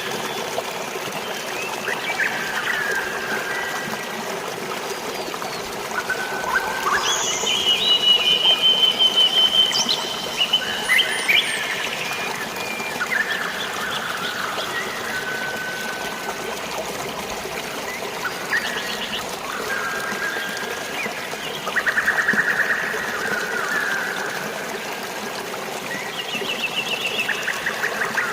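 Steady rush of flowing water and light rain, with many birds chirping and calling over it in short calls and rapid trills, several at once.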